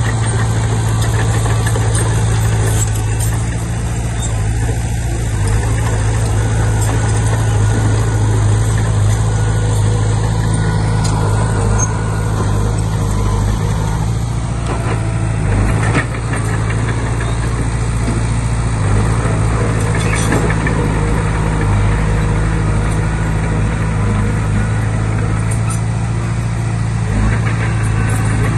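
Komatsu D20P bulldozer's diesel engine running steadily with a deep, even hum, with a few sharp metallic knocks about halfway through.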